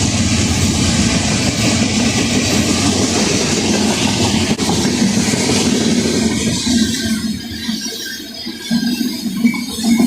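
Freight train railcars rolling past with wheels clattering over the rail joints. The sound is loud and steady, then eases off about seven seconds in.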